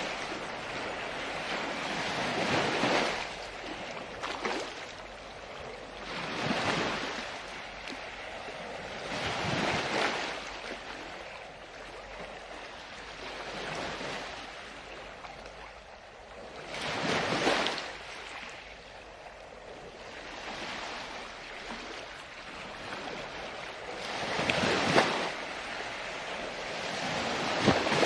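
Ocean surf: wave after wave swelling and falling away every three to four seconds, with a few louder surges among them.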